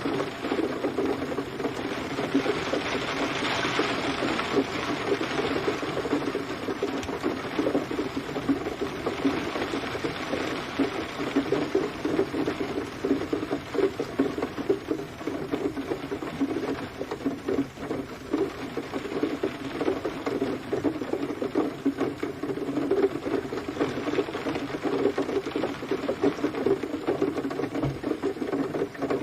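Rain falling steadily, a dense, irregular patter of drops hitting a surface.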